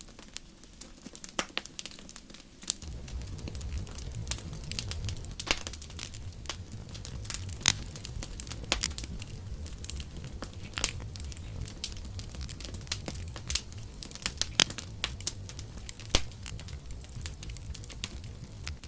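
Campfire crackling, with irregular sharp pops and snaps. A low steady rumble comes in about three seconds in and stays under the crackle.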